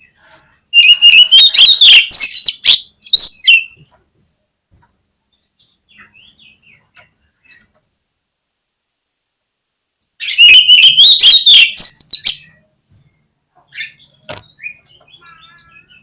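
Oriental magpie-robin singing: two loud bursts of shrill, buzzy song with whistled rising notes, nearly the same phrase twice, about ten seconds apart. Faint chirps fall between them and near the end.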